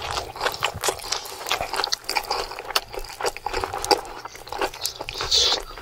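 Close-up wet chewing, biting and lip-smacking of a man gnawing meat off a cooked cow leg bone, with many quick, irregular clicks and smacks.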